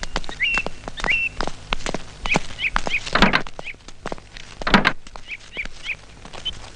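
A bird calling in short rising chirps, about two a second at first and then in quicker pairs, with scattered faint clicks. Two louder dull thumps come about three and five seconds in.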